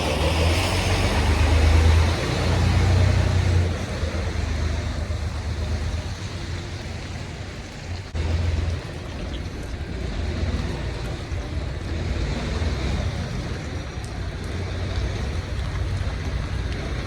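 Semi truck's diesel engine running at low revs while the truck backs its trailer into a parking spot, a steady low rumble that is louder for the first few seconds.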